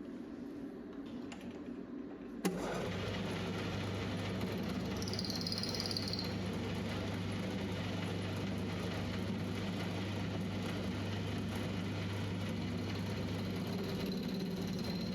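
A metal lathe is switched on with a click about two and a half seconds in, then runs with a steady motor hum. A brief high whine comes a few seconds after it starts, and a thin high tone appears near the end.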